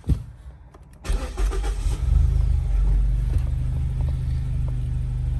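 2014 Mazda 3's 2.0L four-cylinder engine starting: a click, then about a second in it cranks briefly, catches and settles into a steady idle. This is the engine after its cylinder 2 misfire repair, new spark plugs fitted.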